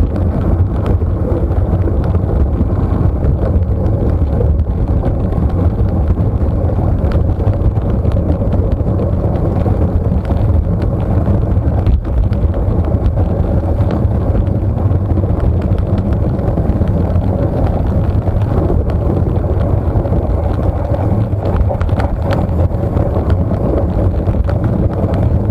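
Steady, loud rumble of a moving vehicle with wind buffeting the microphone.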